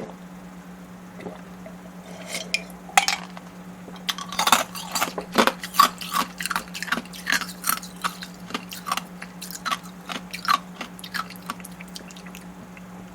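Close-miked mukbang eating: a dense run of crisp, wet clicks and crunches of chewing, busiest in the middle and thinning out near the end, over a faint steady low hum.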